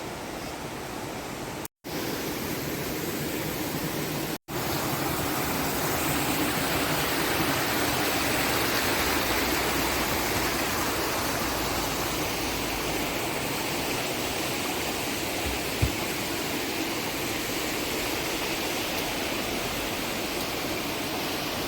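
Steady rush of flowing stream water, broken twice by very brief drop-outs to silence in the first few seconds.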